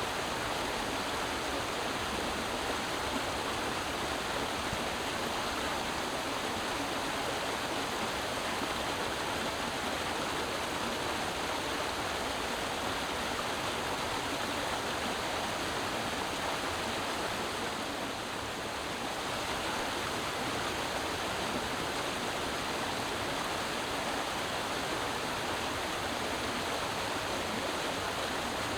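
Creek water running over rocks: a steady rushing babble with no other sounds, dipping slightly for a moment about two-thirds of the way through.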